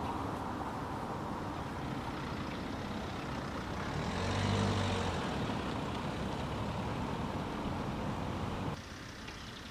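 Road traffic rumble, with a heavy vehicle's engine passing and loudest about four to five seconds in; the sound drops suddenly near the end.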